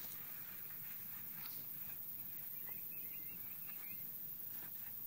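Faint outdoor ambience with a short, faint run of bird chirps about two and a half seconds in, plus a few light rustles.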